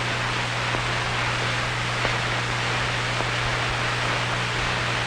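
Steady hiss with a constant low hum and a few faint ticks: the background noise of an old film soundtrack.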